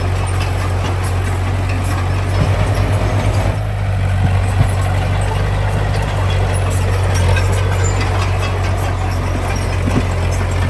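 Heavy diesel engine of construction machinery running steadily with a deep hum, with a short pulsing stretch about two and a half seconds in and a couple of light knocks.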